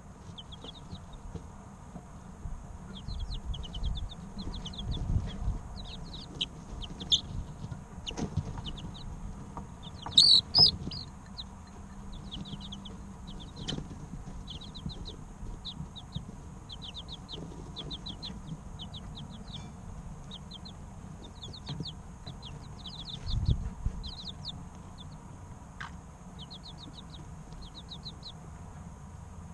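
Three-week-old chicken chicks peeping in quick runs of short high peeps, with one louder call about ten seconds in. A few low thuds sound under them, around five seconds and again near twenty-three seconds.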